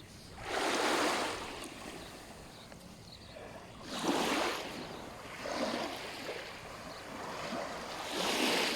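Small sea waves washing onto a sandy beach: four swells of surf a few seconds apart over a steady background hiss of the sea.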